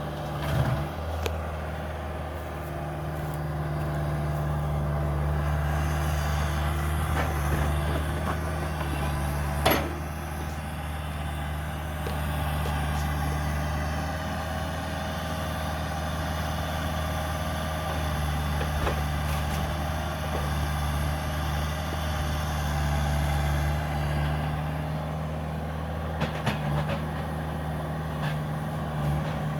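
Cat 305 mini excavator's diesel engine running steadily, with a few sharp knocks; the loudest comes about ten seconds in.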